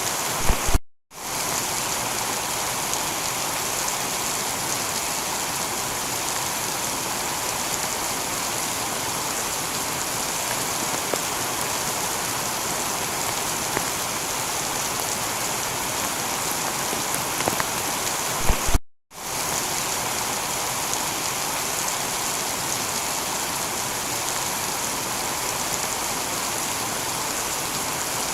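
Steady heavy rain falling on a tiled roof, an even hiss of drops. The sound cuts out completely twice for a moment, about a second in and again past the middle, each time just after a short thump.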